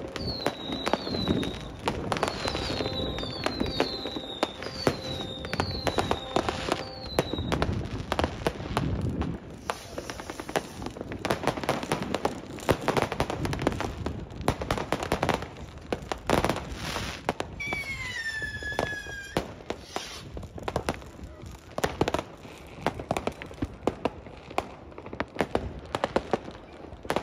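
New Year's Eve fireworks: a continuous run of bangs and crackles, with several short falling whistles in the first seven seconds and one longer falling whistle a little past the middle.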